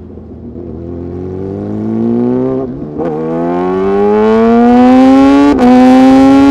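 Sport motorcycle engine accelerating hard, growing louder as its pitch climbs steadily through the gears. There are brief breaks for upshifts about two and a half seconds in and again near the end.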